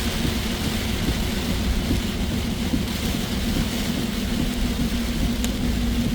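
Car driving, heard inside the cabin: a steady low rumble of engine and road noise with a constant hum.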